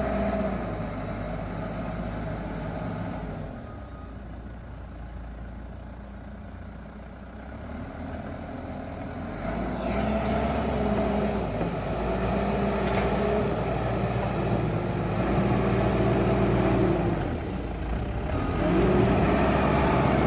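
Diesel engine of heavy earthmoving machinery working under load, revving up and down again and again. It runs lower for a few seconds about four seconds in, then picks up with repeated rev cycles.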